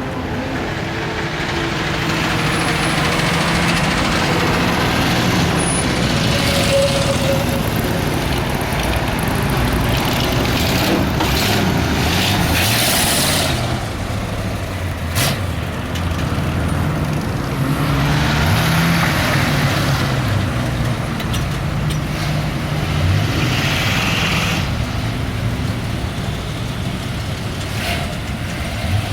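Car engines running, with a steady low engine note throughout and a single sharp click about fifteen seconds in.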